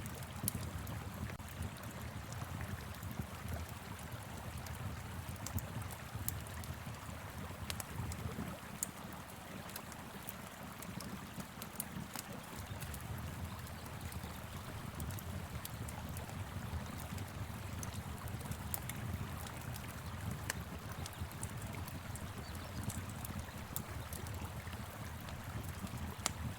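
A river rushing steadily with a low rumble, overlaid with scattered sharp crackles and pops from a wood fire burning in a fire pit.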